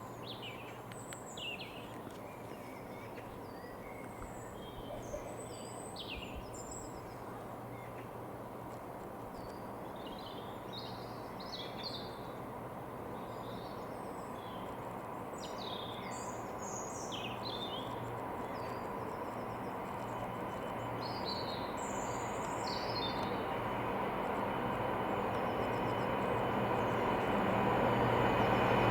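Songbirds chirping and singing over the steady low hum of an approaching freight train, which grows gradually louder through the second half.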